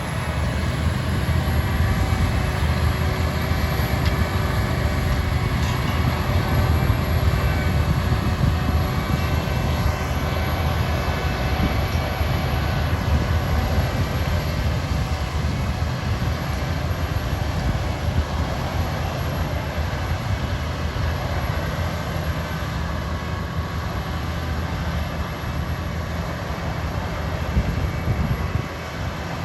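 Heavy farm machinery running steadily at work during a sugar beet harvest: a continuous deep engine rumble with faint steady whines above it.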